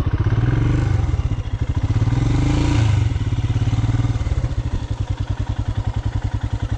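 Dual-sport motorcycle engine running, with a short rush of noise around the middle, then settling into a slow, even putter for the last few seconds, close to idle.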